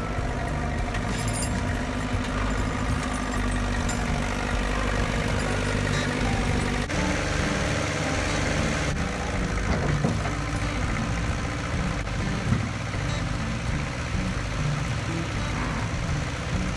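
Massey Ferguson tractor engine running steadily, its pitch shifting about seven seconds in.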